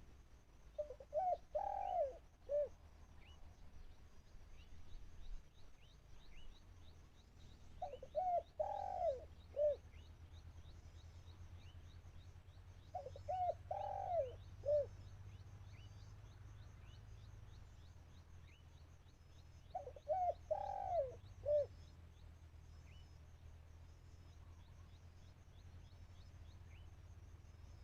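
Spotted dove cooing: four matching phrases, each a couple of short notes, a longer drawn coo and a short final note, repeating about every six seconds. Faint high chirping and a low rumble run underneath.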